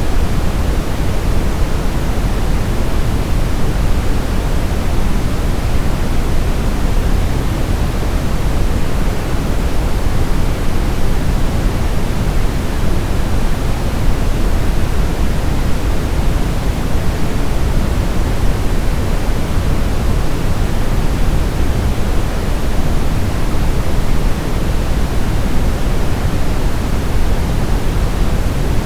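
Steady white-noise sleep sound: an even, unbroken hiss, heavier in the low end, with no change in level or pitch.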